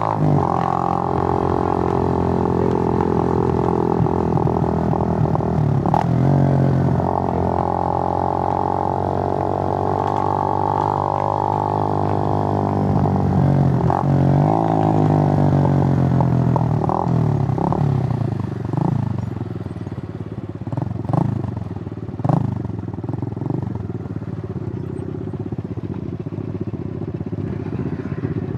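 Suzuki GN125's single-cylinder four-stroke engine running under way, its note rising and falling with the throttle. About two-thirds of the way through it eases off and runs quieter and rougher, with a few sharp clicks.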